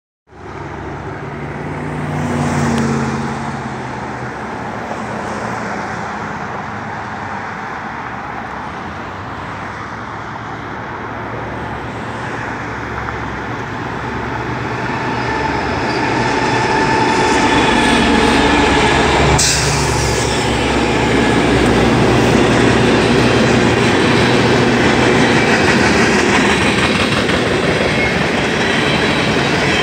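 Union Pacific freight train approaching and passing close by: diesel locomotives running, then freight cars rolling over the rails. The sound grows louder over the first half and then holds steady, with one sharp knock about two-thirds of the way through.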